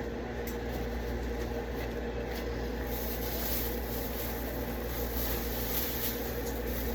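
Steady low hum, with faint rustling and soft taps as blackberries are tipped from their plastic container into a plastic bag.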